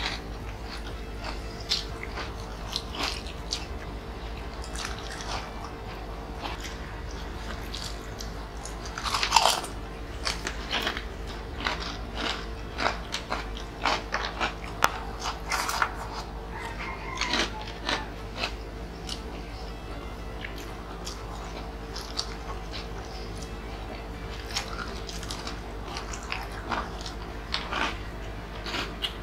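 Close-miked eating: repeated crisp crunches and chewing of crackers and fried food, eaten by hand, over soft background music.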